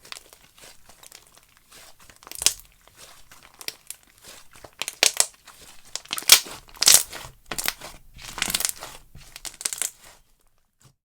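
Slime being squished and stretched by hand: a run of irregular squishes and pops of varying loudness, loudest around six to seven seconds in, stopping about ten seconds in.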